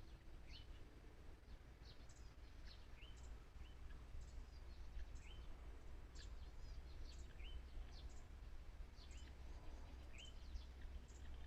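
A small bird calling with short, high chirps, repeated about once a second, over a faint low steady rumble.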